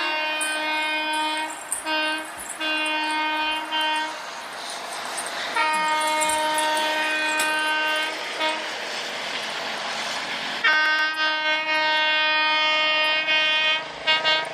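Train horn sounding in repeated long blasts on one steady pitch, with a short toot about two seconds in and gaps between the blasts.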